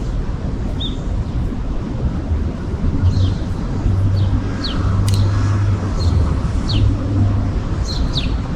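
Street ambience: a steady low rumble of traffic, with wind on the microphone. Over it a small bird chirps repeatedly in short, quick falling notes.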